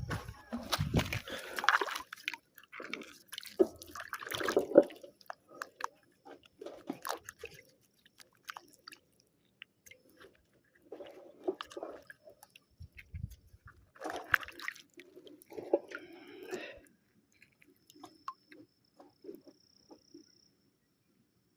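Irregular crunching, scraping and clicking of stone and grit being dug and handled, in scattered bursts with quiet gaps between them.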